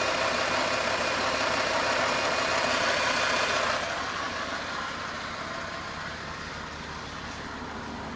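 Freshly overhauled Toyota 1FZ-FE 4.5-litre inline-six running steadily at idle in its first minutes after the rebuild, with the ignition timing not yet set. It is louder for about the first four seconds, then drops noticeably and stays lower.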